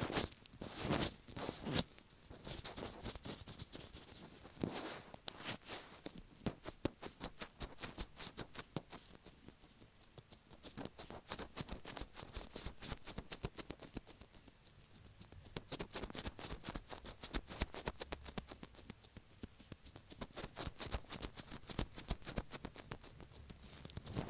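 Fingers in latex gloves tapping and rubbing directly on an earphone microphone. The result is rapid, close-up clicks and sticky crackles, several a second, a little louder in the first couple of seconds.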